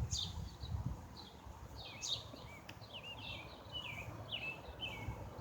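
Wild birds chirping: a string of short, high, falling notes, some in quick pairs, over faint outdoor background noise, with a few low rumbles in the first second.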